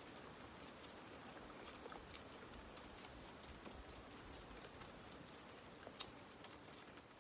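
Faint steady patter of rain heard from inside a barn, with scattered light ticks of drops and a couple of sharper ones.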